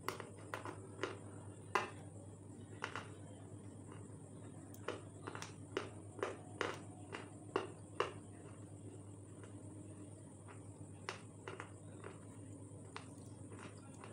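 Close-miked crisp crunches and mouth clicks as a person bites into and chews a hard, brittle snack. They come thick and fast for the first eight seconds, then only a few more. Under them runs a steady background hum.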